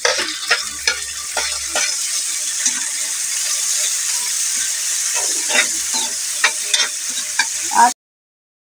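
Garlic, onion and freshly added tomato sizzling in rendered pork fat in an aluminium wok, with a utensil scraping and tapping against the pan as it is stirred. The sound cuts off abruptly near the end.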